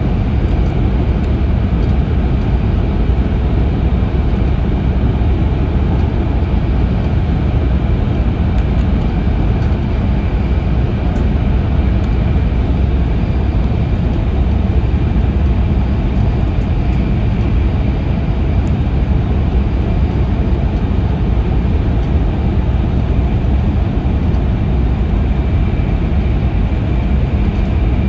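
E5-series Shinkansen running at speed, heard from inside the passenger cabin: a steady, even rumble with a faint high whine above it.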